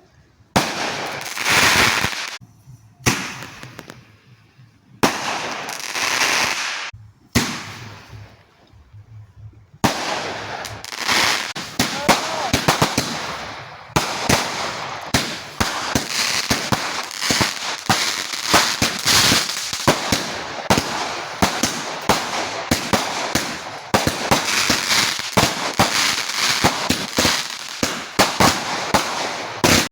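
Fireworks going off: a few separate hissing bursts with short gaps between them, then from about ten seconds in a long, dense run of rapid crackling bangs.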